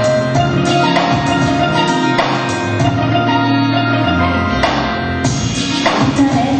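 Live band music without vocals: an instrumental passage with a steady drum beat under sustained pitched instruments and bass.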